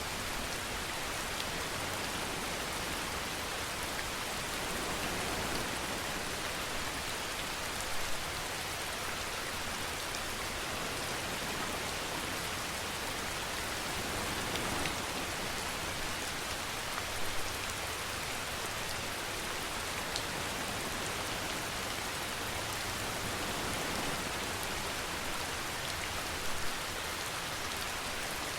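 Steady rainfall: an even hiss of rain with a few brief, slightly louder patters scattered through it.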